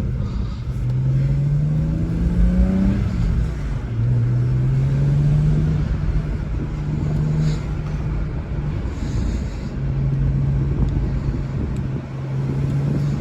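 BMW 335xi's twin-turbo 3.0-litre N54 inline-six pulling under acceleration. Its pitch rises, drops at a gear change about three seconds in, climbs again, then settles to a steady cruise.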